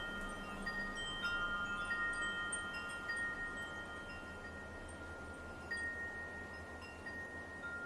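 Wind chimes ringing, struck at irregular moments so that a few clear, fixed-pitch notes overlap and ring on for seconds.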